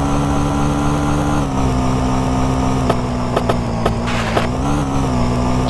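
Small moped engine running at a steady speed, its pitch dipping slightly about a second and a half in. A few sharp clicks come past the middle, then a brief rattling burst.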